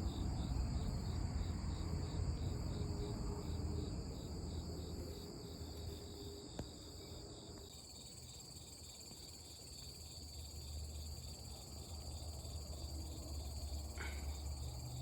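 Crickets and other insects chirping steadily in high, layered trills, one of them pulsing at a regular two to three chirps a second, over a low rumble.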